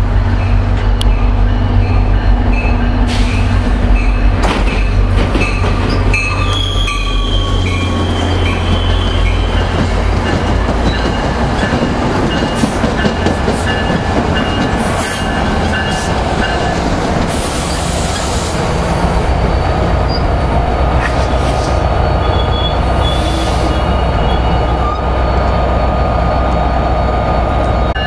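Commuter trains at a station: a diesel locomotive rumbling steadily while a train pulls in, with thin, high wheel and brake squeals, mostly in the first third.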